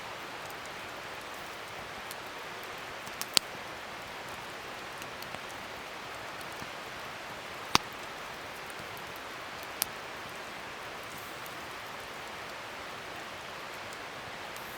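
Wood fire burning: a steady hiss with scattered sharp crackles and pops, three of them much louder than the rest.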